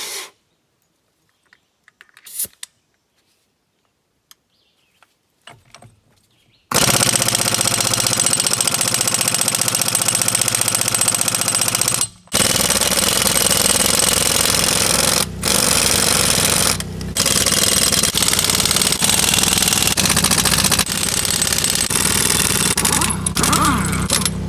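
Impact wrench hammering at a truck wheel's lug nuts to break them loose. It starts about a quarter of the way in and runs in long bursts with a few brief pauses.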